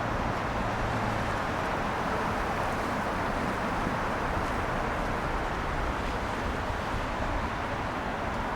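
Steady city street traffic noise, a continuous wash of passing cars and tyres on wet road, with a faint low engine hum in the first second or so.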